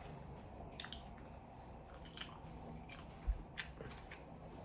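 Faint, close-miked chewing with scattered small mouth clicks, and a single low thump a little over three seconds in.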